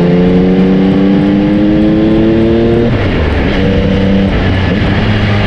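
Motorcycle engine accelerating, its pitch climbing steadily for about three seconds, then dropping sharply at a gear change and pulling on at a lower, steadier note. Loud.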